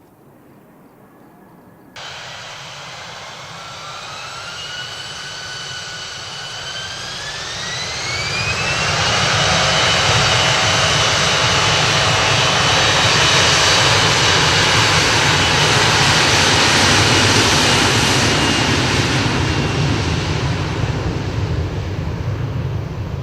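Turbofan engines of an Embraer regional jet spooling up: the sound cuts in about two seconds in, a whine rises in pitch over several seconds, then a loud steady roar at high thrust, beginning to fade near the end.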